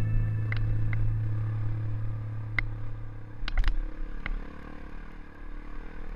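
Dirt bike engine running steadily at low revs and fading away over the first few seconds, with a few sharp clicks and clatters around the middle.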